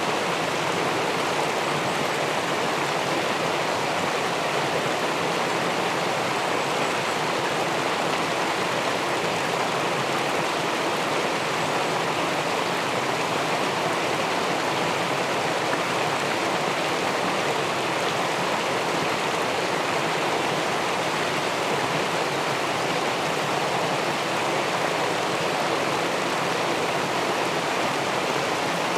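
River water rushing steadily where it spills over a weir into the pool below, an even, unbroken rushing noise.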